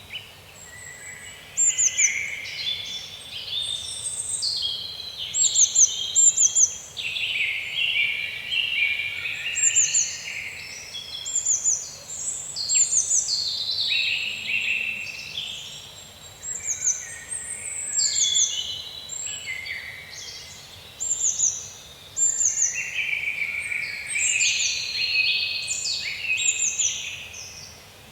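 Songbirds singing in a woodland, phrase after phrase of chirps and quick falling high notes every second or two, over a faint steady hiss.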